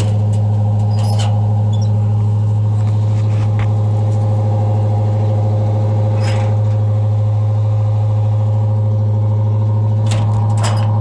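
Chevrolet 350 small-block V8 of a 1978 Chevy one-ton 4x4 idling steadily while still cold, with a few light clicks and knocks over it, the clearest near the end.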